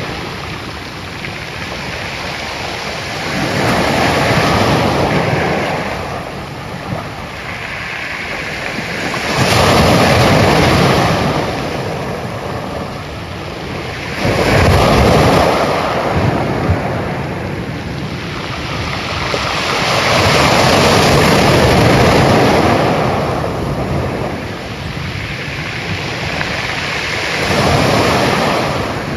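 Ocean surf: waves breaking and washing ashore in slow surges, about five of them, each swelling and fading over a few seconds.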